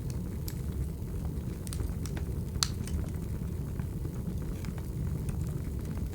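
Wood fire crackling: a steady low rumble of burning with scattered sharp pops and snaps, one louder snap about two and a half seconds in.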